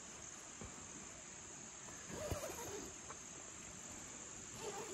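Crickets chirping steadily in a continuous high-pitched chorus, with a faint single knock a little over two seconds in.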